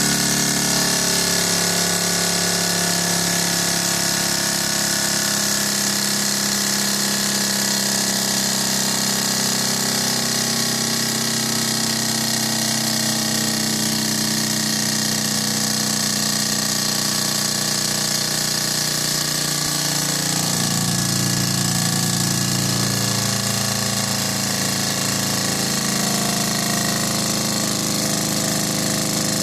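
Small alpha Stirling engine running steadily with a continuous mechanical whir and hiss. Its pitch shifts slightly a few times as its speed wanders.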